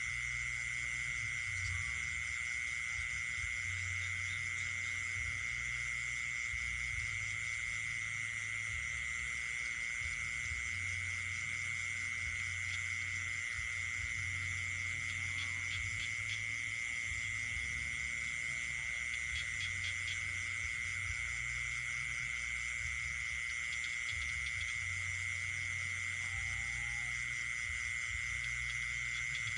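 Night chorus of insects and frogs: one unbroken, high, steady insect trill is the loudest sound, over a dense chorus of other calls. A low rumble comes and goes underneath.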